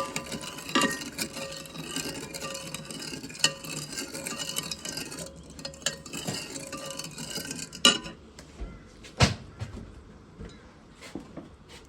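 Kitchen utensils clinking and scraping against pans and dishes during cooking, with a couple of sharper knocks about eight and nine seconds in, then only a few light clicks.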